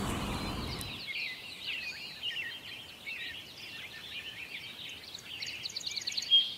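Small songbirds chirping and twittering in a forest chorus, with a quick trill near the end. A low rushing noise underneath stops about a second in.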